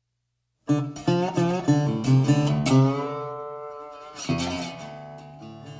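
Acoustic guitar music starting about a second in: plucked and strummed notes, some bent in pitch, then a last strum that rings out and fades.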